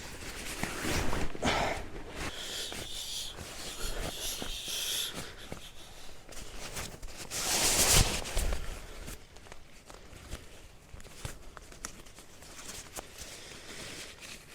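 Close rustling, knocking and clicking of gear and fabric being handled, with a louder rush of noise about eight seconds in.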